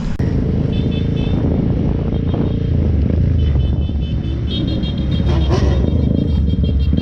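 A vehicle engine's steady, loud low rumble.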